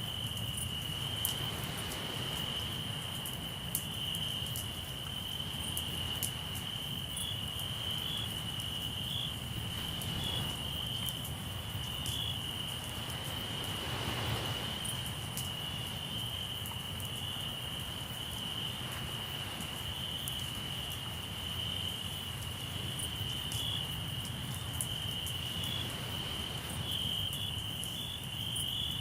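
Crickets trilling in one steady, unbroken high note, over small sharp crackles from a campfire and a low, steady wash that fits sea surf.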